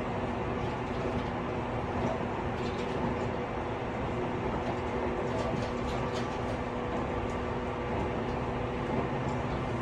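Running noise inside a motor car of a Tobu 50090 series electric train: a steady rumble of wheels on rail with a faint steady hum, and light clicking rattles around the middle.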